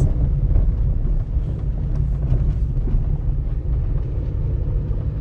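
A car driving: a steady low rumble of engine and road noise heard from inside the cabin.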